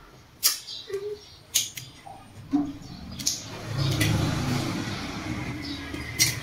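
Close-up mouth sounds of biting and chewing juicy watermelon: a handful of short, crisp wet crunches a second or so apart, with a low rumble of chewing from about four seconds in.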